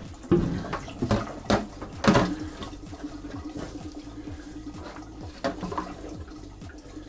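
Water running in household plumbing. Four sharp knocks come in the first two seconds, and after the last one a steady hum holds at one pitch.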